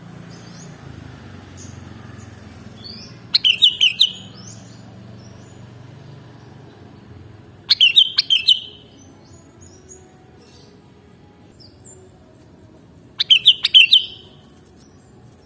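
Sooty-headed bulbul (kutilang) singing: three short phrases of quick notes, about five seconds apart, over a faint low hum.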